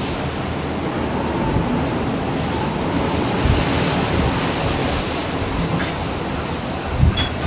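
Rough sea and wind rushing steadily over the microphone, with two dull low thumps, the louder one near the end.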